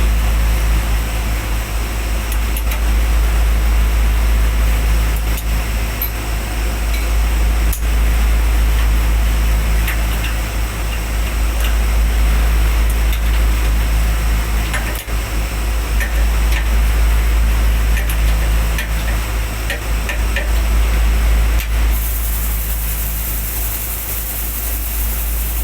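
Steady machinery drone with a strong low hum, with a scatter of light metallic clicks and taps in the middle and a rise in hiss near the end.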